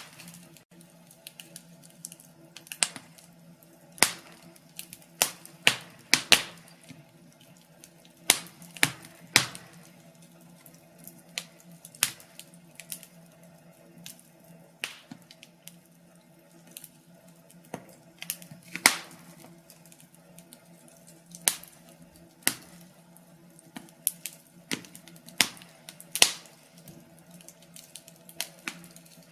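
Wood fire crackling in a fireplace: irregular sharp pops and snaps, one or two loud ones a second with smaller ticks between, over a faint steady low hum.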